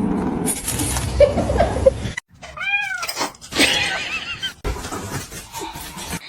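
A cat meowing: a few short meows that rise and fall in pitch near the middle, after about two seconds of clattering, rustling noise.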